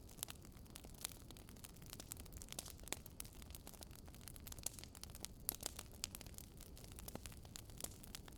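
Firewood burning in a fireplace, crackling: irregular sharp pops and snaps, several a second, over a steady low rumble of the flames.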